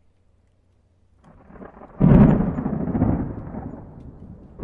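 A deep rumble builds, then breaks into a sudden loud thunder-like boom about two seconds in that slowly rolls away.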